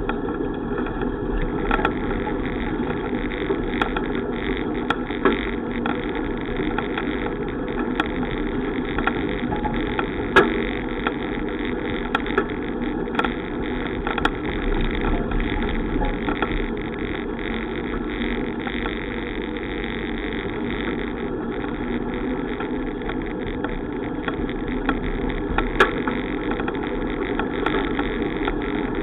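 Steady wind and road rumble from riding a bicycle, with scattered sharp clicks and rattles.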